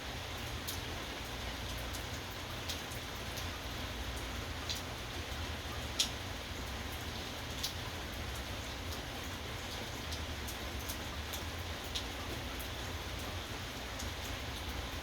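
Steady rain falling, with scattered single drops tapping sharply on a nearby surface; one tap about halfway through is the loudest.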